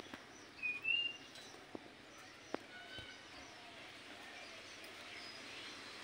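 A bird gives a short high chirp in two quick parts about a second in, then a faint softer whistle a couple of seconds later, over a quiet steady outdoor background with two faint clicks.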